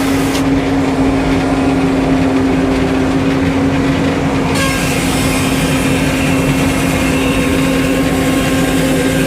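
Sawmill engine running steadily at a constant speed, with a hiss joining the drone about halfway through.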